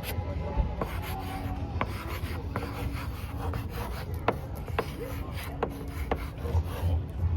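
Rubbing and scraping against the microphone, with sharp irregular clicks over a low rumble.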